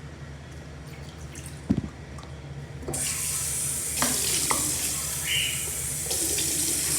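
A knock, then about three seconds in a tap is turned on and water runs steadily into a sink as a dish is rinsed clean, with a few short knocks against it.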